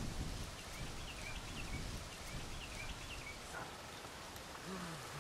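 Birds chirping in short, repeated high calls over a low rumble of wind on the microphone.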